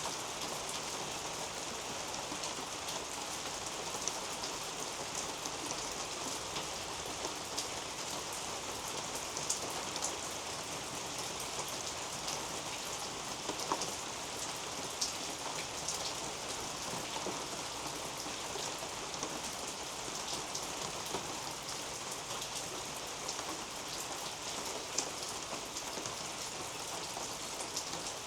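Steady rain falling on a leafy garden canopy: an even patter of many small drops, with a few louder single drips standing out now and then.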